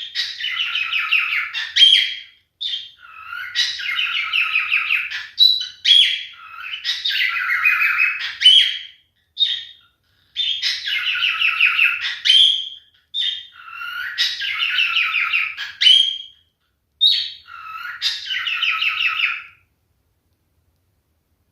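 Male pied cockatiel singing: a string of warbling, chattering phrases broken by short, sharp whistled notes, falling silent near the end.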